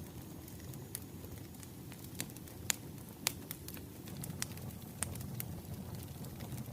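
Wood fire crackling: scattered sharp pops and snaps over a steady low rush of burning logs.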